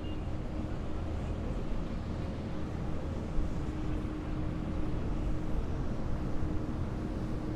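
Heavy military vehicle engines running steadily, a low drone with a constant hum.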